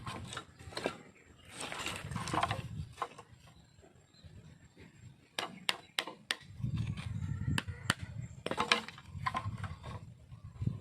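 Bamboo being handled and struck: scraping and rustling, then a quick run of about five sharp wooden knocks just past the middle and one more knock soon after.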